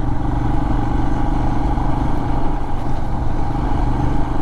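Royal Enfield Himalayan motorcycle engine running at a steady cruising speed, its note holding a constant pitch.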